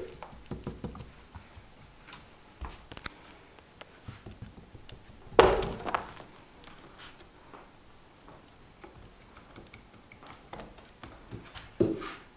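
Persian kitten playing on a carpeted scratching post: scattered light knocks and scratching, with a louder thump about five seconds in and another near the end.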